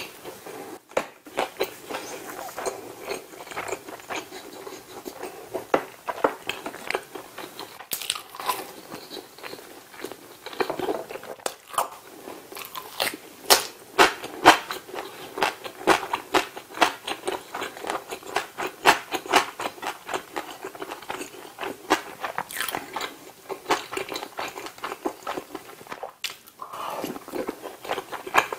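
Close-miked chewing of crusty pizza: a steady run of crunching, crackling mouth sounds, with a brief pause near the end.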